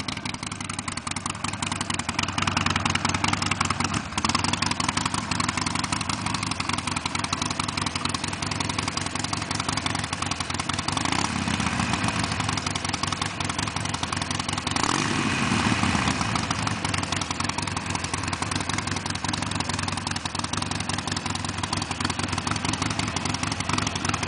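2007 Harley-Davidson Sportster 1200's air-cooled V-twin idling through a Screaming Eagle II exhaust, with a short rev about halfway and a bigger rev a few seconds later, each falling back to idle.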